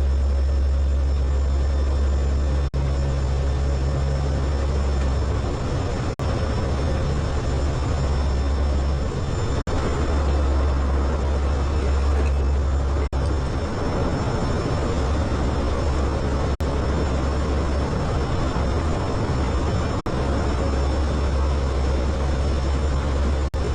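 Hurricane hunter aircraft's engines droning steadily and loudly, with a strong low hum, broken by very brief dropouts every three to four seconds.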